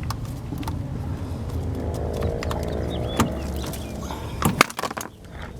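Several sharp clicks and knocks, as of tools and fasteners handled during work on a car, over a steady low rumble; a faint hum sounds about two to three seconds in.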